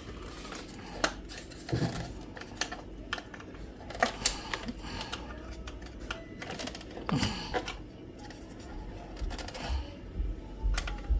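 Irregular plastic clicks and knocks of hands and a tool working at the latches and housing of an inkjet printer, trying to unhook its power supply unit, which is still caught.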